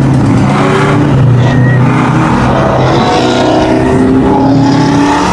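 Car engine running hard under acceleration, loud, its pitch climbing slowly from about the middle on.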